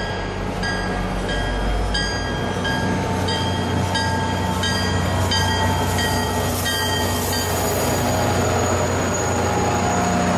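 A train at a station platform, with a steady low hum and a repeated ringing tone about every two-thirds of a second that stops about seven and a half seconds in.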